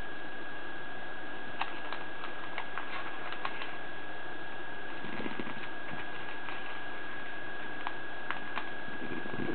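Origami paper being folded by hand: scattered small crinkles, taps and creasing clicks over a steady background hiss with a constant thin whine.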